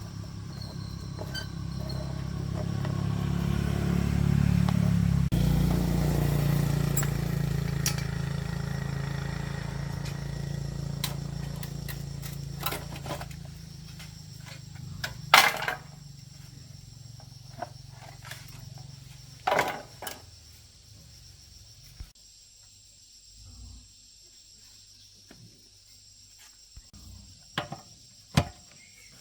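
A low engine-like motor hum that swells and then slowly fades over about fourteen seconds, followed by a few sharp knocks spaced several seconds apart.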